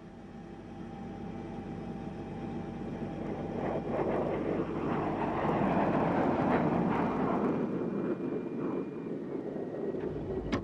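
Aircraft engine noise with a few steady tones, swelling to its loudest around the middle and then easing off, as an aircraft passes.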